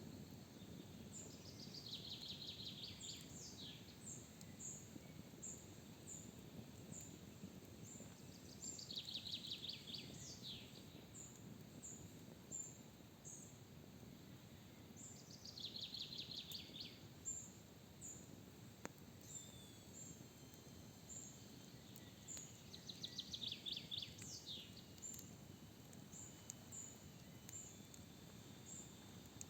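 Faint forest birdsong: one songbird repeats a short trilled phrase that falls in pitch about every seven seconds, while another bird gives a thin high note about twice a second. A faint low hiss sits underneath.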